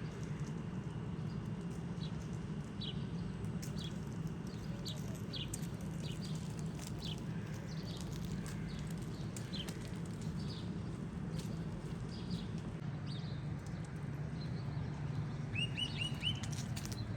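Small birds chirping, short high notes repeated every second or so, over a steady low hum of city background noise; a quick run of chirps comes near the end.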